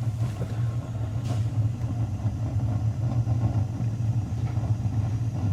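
Gas burner of a Bradford White tank water heater firing, a steady low rumble.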